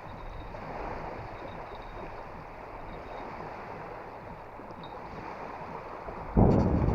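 Choppy water washing at the bank in a storm, a steady rush. Near the end a gust of wind suddenly buffets the microphone with a loud rumble.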